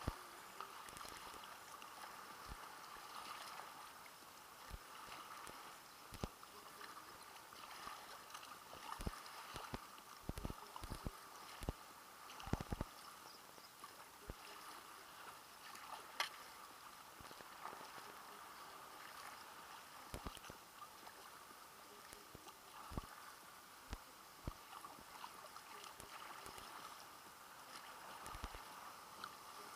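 Kayak on the sea: a faint steady wash of water, broken by irregular soft knocks and splashes, with a cluster of them about a third of the way in.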